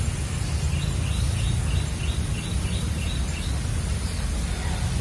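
A bird calling a quick series of short chirps, about three a second, which stop about three and a half seconds in. Underneath is a steady low outdoor rumble.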